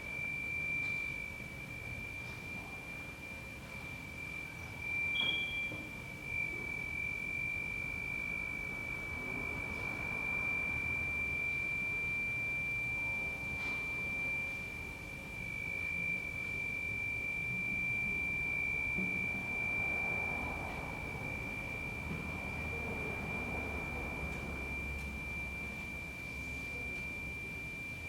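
A steady, high-pitched pure tone held without a break, with a brief higher chirp about five seconds in, over faint low background noise.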